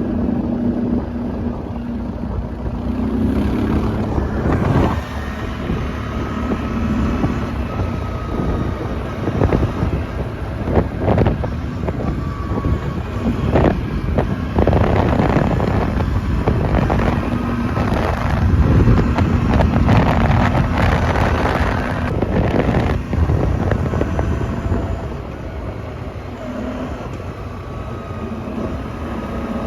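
Quad bike (ATV) engine running while riding, with wind buffeting the microphone and scattered knocks throughout.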